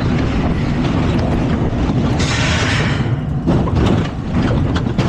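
Spinning coaster car running along its track, heard on board: a steady low rumble with rattles and clicks, and a hiss of noise about two seconds in.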